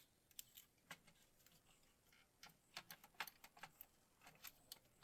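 Faint, irregular light clicks and taps of small parts and tools being handled, about a dozen scattered through the quiet, most of them around the middle.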